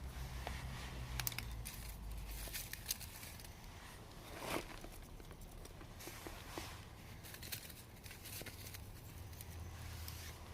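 Scattered small crackles and rustles from a fireplace fire being started, with one louder crackle about four and a half seconds in.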